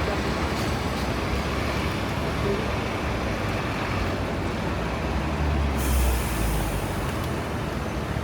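Busy street traffic with a heavy vehicle's engine rumble swelling about five seconds in, then a sharp hiss of air-brake release starting about six seconds in and lasting about a second.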